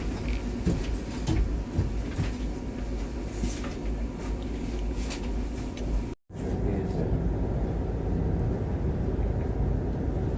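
Interior running noise of a moving electric passenger train: a steady low rumble with scattered knocks and rattles of the carriage, cutting out briefly about six seconds in.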